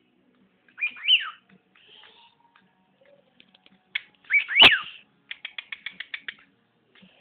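Pet bird whistling: a pair of quick rising-and-falling whistled notes about a second in, another loud whistle halfway through with a sharp tap at its peak, then a fast string of short chirps, about eight a second.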